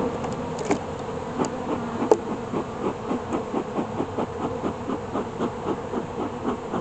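Honeybees buzzing around an opened hive, a steady hum with a regular pulsing, with a few short clicks in the first couple of seconds.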